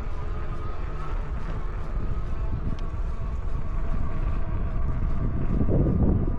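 Wind rumbling on the microphone of a moving e-bike, with a thin steady whine underneath. The rumble swells louder shortly before the end.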